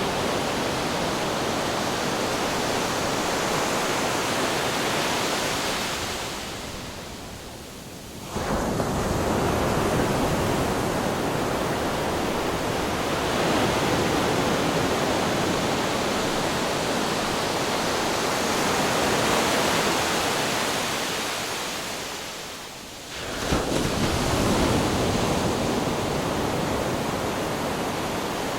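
Ocean waves crashing on rocks: a continuous rushing wash of surf that fades away twice, each time ending in a sudden fresh crash of a breaking wave, about eight seconds in and again some fifteen seconds later.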